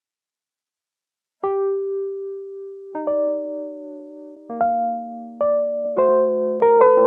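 Electric piano music: after about a second and a half of silence, single held notes enter one at a time and ring on, building into chords. New notes come more quickly near the end.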